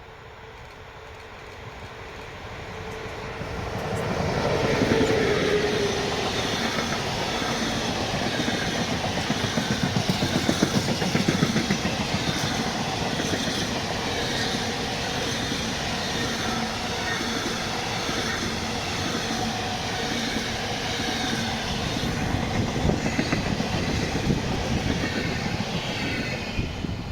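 A train passing close by, its wheels clattering over the rail joints. It builds up over the first four seconds, holds loud and steady for about twenty seconds, then ends near the end.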